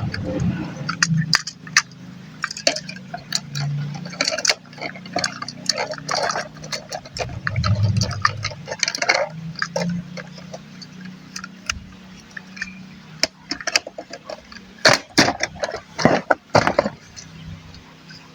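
Small hard plastic parts of a transforming robot toy clicking and snapping as they are handled and folded, in irregular clicks with a denser, louder run of snaps near the end, over a faint low hum.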